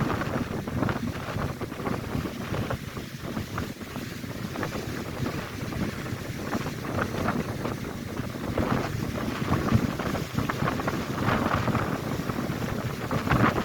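Strong gusty wind buffeting the microphone, over lake waves crashing on the shore.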